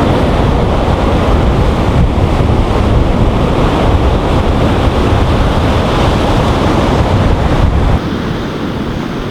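Ocean surf washing on the shore with wind buffeting the microphone, a steady loud rumble that drops off suddenly about eight seconds in.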